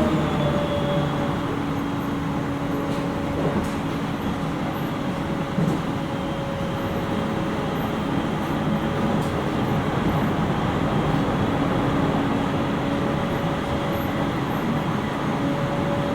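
Cabin running sound of a JR East 701 series 5500 electric train car running between stations: steady rolling noise under a steady hum, with a few faint clicks.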